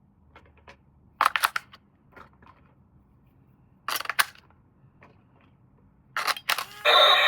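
Three short bursts of sharp plastic clicks and rattles, then near the end a small electric motor of an RC toy starts and runs loudly and steadily.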